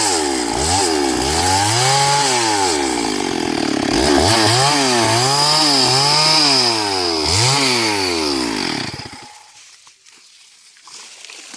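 STIHL MS382 two-stroke chainsaw running while cutting wood. Its engine pitch rises and falls over and over, and it stops suddenly about nine seconds in.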